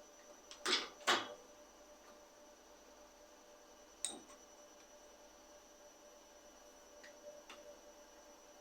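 Workshop handling sounds from bicycle restoration work: two sharp knocks close together about a second in, another about four seconds in, and a few light clicks near the end, over a faint steady electrical hum.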